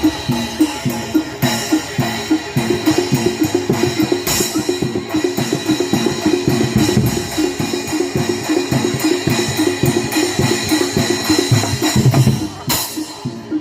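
Live Barongan Blora gamelan accompaniment: fast, driving drumming in a dense, even rhythm, with steady ringing metal tones over it.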